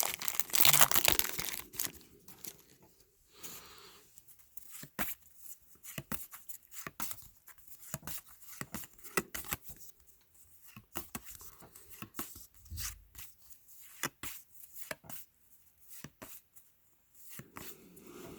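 A trading-card pack wrapper being torn open, loud for about the first two seconds. Then a long run of short, uneven clicks and rustles as the cards are handled and flicked through one by one.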